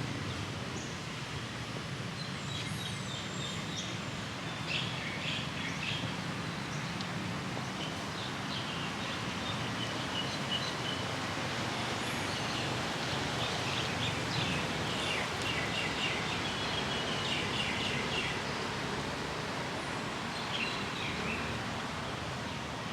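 Steady outdoor background noise with small birds chirping on and off throughout.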